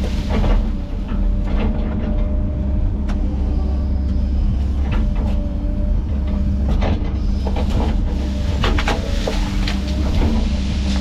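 Heavy diesel land-clearing machine running steadily under load with a deep rumble, with repeated sharp cracks and knocks of wood and machinery throughout.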